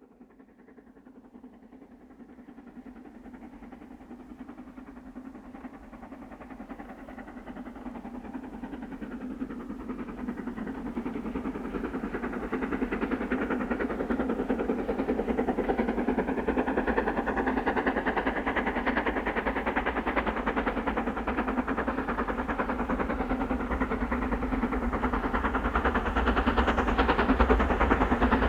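A train drawing closer, fading up from near silence and growing louder over about twelve seconds, then running steadily and close by, a little louder again near the end.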